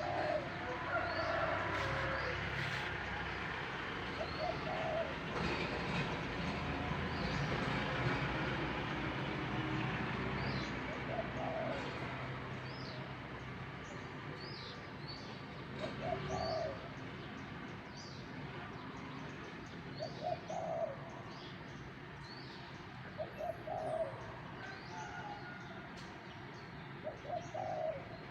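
A dove cooing in short phrases every few seconds, with thin high chirps from small birds and a steady low hum underneath.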